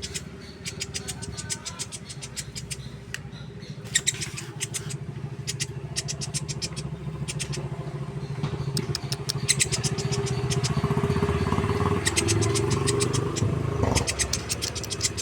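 A woodpecker giving bursts of rapid, sharp clicking call notes, several runs of them, over the steady hum of a running engine that swells for a few seconds in the second half.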